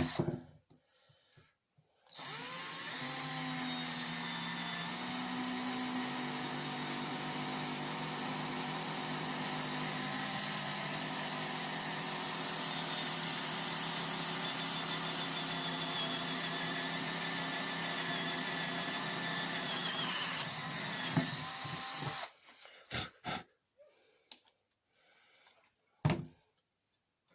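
Electric drill boring a rivet hole through a metal detector's shaft tube: the motor spins up about two seconds in and runs at a steady whine for some twenty seconds, then stops, followed by a few short clicks.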